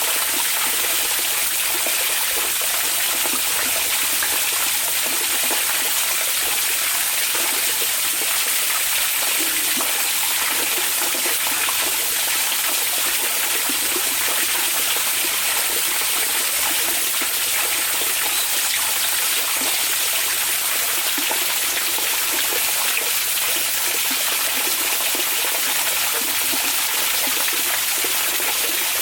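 Hot spring water flowing and splashing steadily, an even, unbroken rush with no single events standing out.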